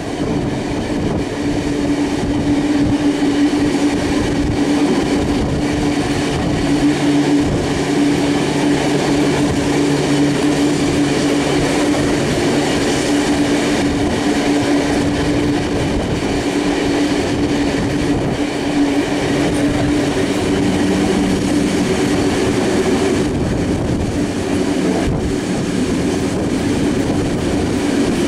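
Steam-hauled train running steadily, heard from on board the train pulled by the Garratt locomotive 6029: a constant rumble of wheels on the rails with a steady low hum.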